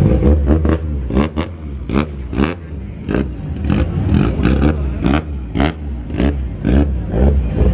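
Car engine running and revving, with many short sharp bursts, about two or three a second and unevenly spaced, over a steady low rumble.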